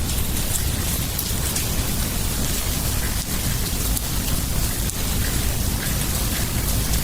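Steady rain falling, an even hiss with a continuous low rumble underneath.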